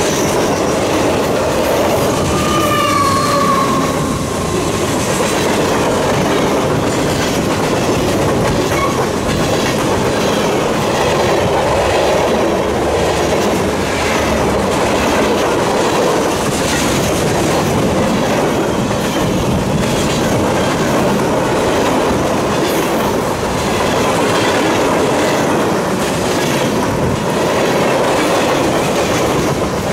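Freight cars rolling past at trackside: a steady rumble and clatter of steel wheels on the rails. About two to three seconds in, a wheel gives a brief high squeal.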